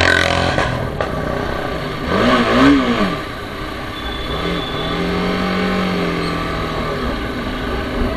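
TVS Apache RR310's single-cylinder engine under way, revving up and quickly back down about two seconds in, then a slower rise and fall in engine speed over the next few seconds, with steady road and wind noise underneath.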